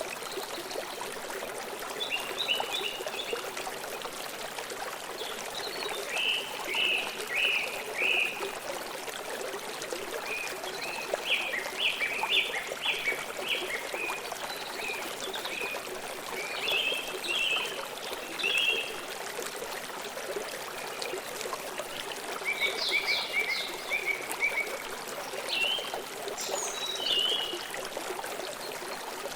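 River water flowing steadily, with birds chirping in short runs of quick, high notes every few seconds.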